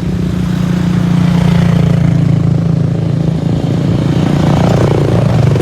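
Motorcycle engines running loudly with a steady low rumble, one of them revving up near the end.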